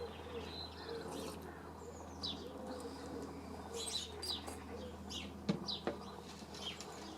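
Garden birds chirping, with short high chirps throughout and low wavering cooing calls through the first half, typical of a pigeon or dove. Two sharp clicks come about five and a half seconds in.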